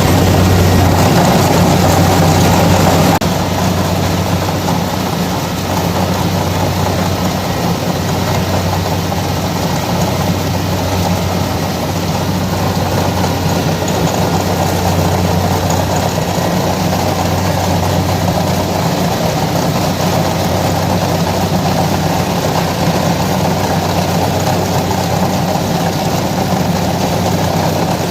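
Kubota DC-70 combine harvester's diesel engine running steadily, a constant deep hum that gets slightly quieter about three seconds in.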